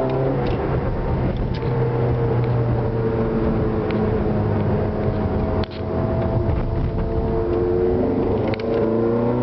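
Ferrari F430 Scuderia's V8 heard from inside the cabin, pulling steadily under throttle with its note climbing slowly. There is a brief dip a little past halfway, and the pitch rises again near the end.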